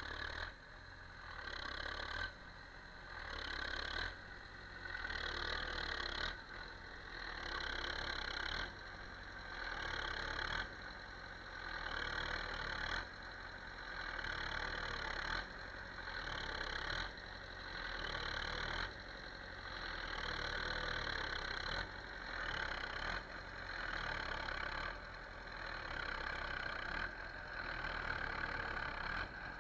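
A motor running, its sound swelling and dropping back about every two seconds.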